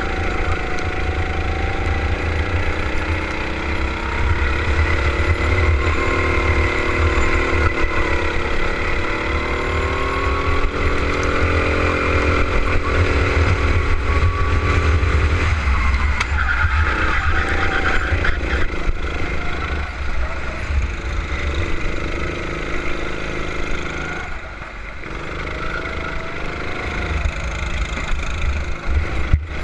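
Go-kart engine running at racing speed, its pitch climbing and falling as the throttle is worked through the corners, with a brief drop in level about three-quarters of the way through as the driver lifts off.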